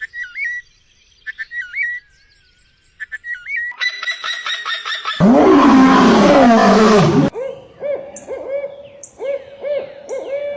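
A string of different bird calls cut abruptly one after another: short whistled chirps, a fast run of repeated notes, a loud harsh screech from about five to seven seconds in, then a repeated lower call to the end.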